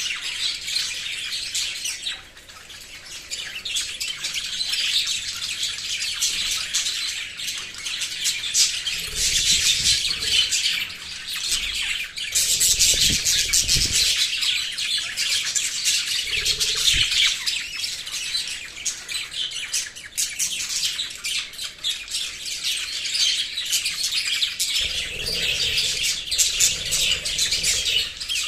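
A group of small pet parrots, lovebirds or budgies, chirping and chattering continuously, with shrill overlapping tweets and squawks.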